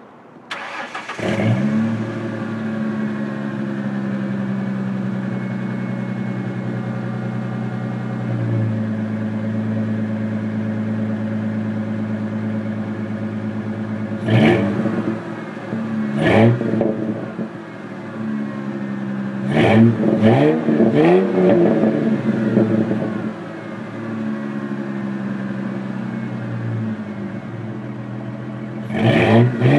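Ford 3.8-litre V6 of a 2000 Mustang, fitted with a Windstar intake and dual exhaust, starts about a second in and idles steadily, then is revved in several short blips from about halfway through and again near the end.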